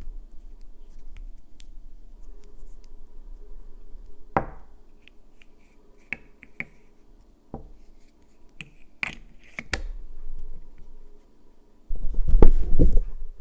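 Light clicks, taps and scratches of hands handling small manicure items, some clicks with a brief glassy ring, then a louder burst of bumping and rustling close to the microphone near the end.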